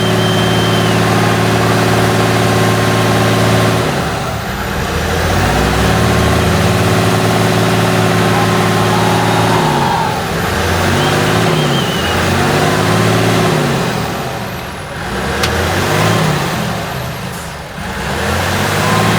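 Praga V3S 6x6 truck's air-cooled Tatra diesel engine working hard off-road, its pitch dropping and then falling and rising several times as the throttle is eased and opened again.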